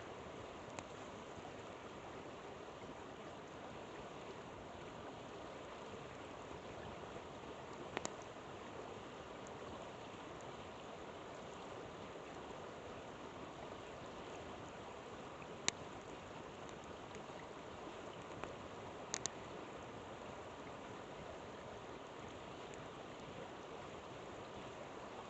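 River water rushing steadily, with a few sharp pops from a crackling campfire, the loudest about two-thirds of the way through.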